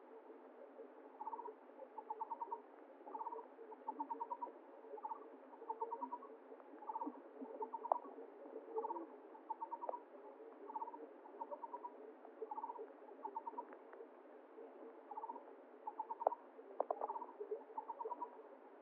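An animal calling over and over: short, rapid trilled notes, each group lasting a fraction of a second, repeated about once a second, over a steady murmur of flowing water.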